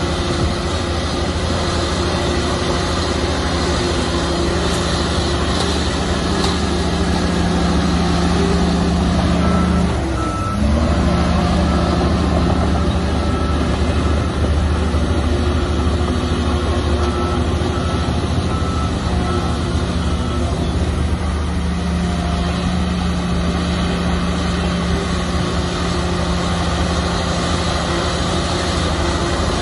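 Heavy diesel earthmoving machinery running steadily with a deep engine drone. About ten seconds in the engine briefly dips, and a reversing alarm beeps at an even pace for about ten seconds before stopping.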